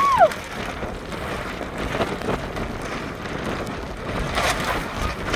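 Strong gusty wind buffeting the microphone, a steady rushing and rumbling that swells and eases. Right at the start a short high call rises and falls once.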